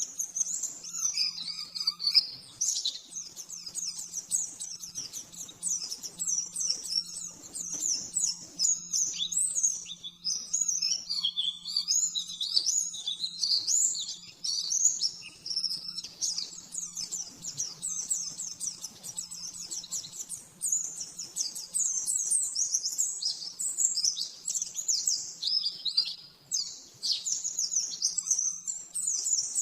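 White-eye (pleci) singing a fast, unbroken torrent of high twittering, sweeping notes: the rapid-fire 'nembak' song. A faint steady low hum lies underneath.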